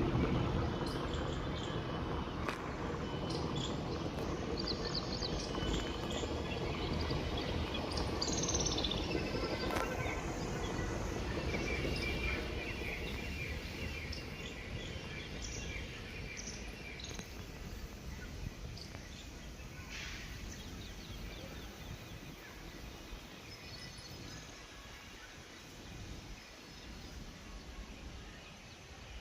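Birds chirping and calling over a steady low background noise that slowly fades.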